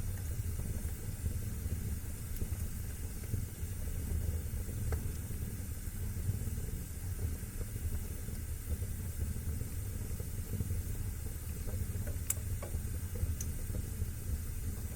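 Wood fire burning in a fireplace: a steady low rumble of flames with a few sharp crackles and pops, one about a third of the way through and a small cluster near the end.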